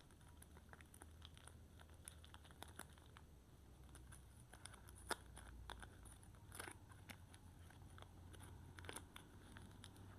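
Quiet, irregular crinkling and small clicks of soap packaging being handled and opened, with one sharper click about five seconds in and brief rustles later. A faint low hum runs underneath.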